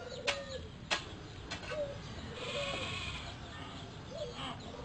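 Several short, faint animal calls about a second apart, some falling in pitch at the end, with a few sharp clicks in the first second and a half.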